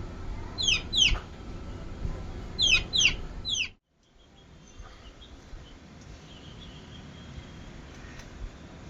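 Young chickens peeping: about five loud, sharp peeps that fall in pitch, mostly in pairs, over the first four seconds. The sound then cuts off abruptly and gives way to a quieter, steady background with a few faint sounds.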